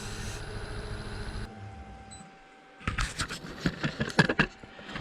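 Wood lathe running steadily, then switched off about a second and a half in and spinning down. Then a quick run of sharp knocks and clatter, like tools or the workpiece being handled.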